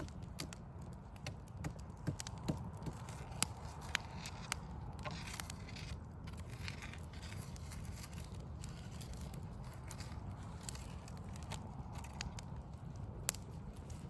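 Backyard wood fire of burning logs crackling, with irregular sharp pops, a louder one a little past three seconds and another near the end, over a steady low rumble.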